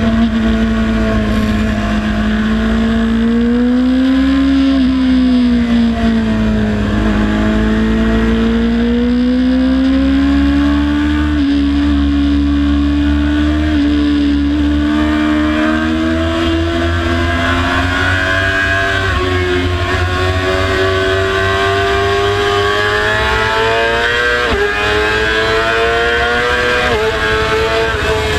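Motorcycle engine running hard at high revs, its pitch swelling and dipping and then climbing gradually, over a steady low rumble.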